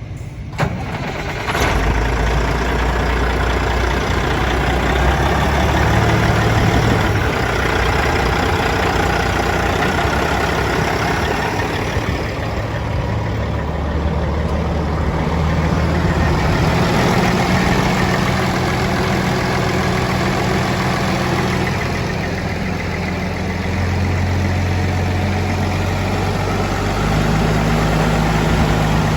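Caterpillar C15 inline-six diesel in a Kenworth T800W dump truck starting up about two seconds in, then idling steadily, its idle speed stepping up and down a few times.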